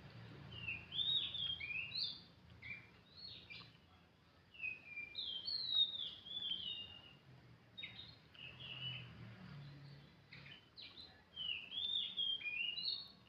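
Oriental magpie-robin (kacer) singing a quick, varied string of short whistled notes that swoop up and down, in three runs with brief pauses between them.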